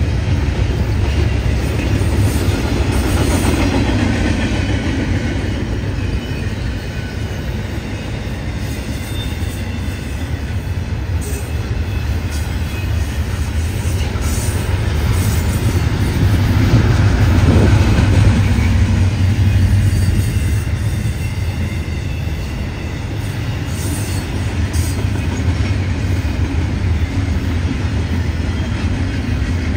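A CSX double-stack intermodal train's container well cars rolling past: a steady low rumble of steel wheels on rail, with clicking over the rail joints, loudest a little past halfway.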